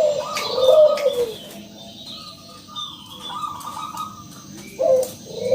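Zebra dove (perkutut) cooing: a run of rolling coo notes at the start and another starting near the end, with higher chirps from small birds behind.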